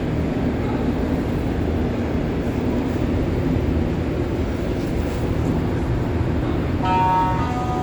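Steady low rumble inside a Montreal MR73 metro car. About seven seconds in, a set of steady electronic tones starts, stepping from one pitch to another.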